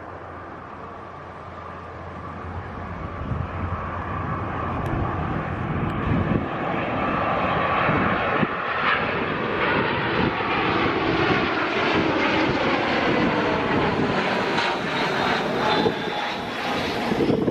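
Jet airliner passing low overhead, its engine noise growing louder over the first several seconds and then holding, with whining tones that slowly fall in pitch.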